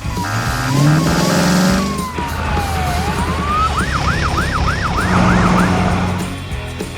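Upbeat cartoon background music with a siren-like sound effect: a tone slides down and back up, then breaks into a quick run of rising-falling wails near the middle.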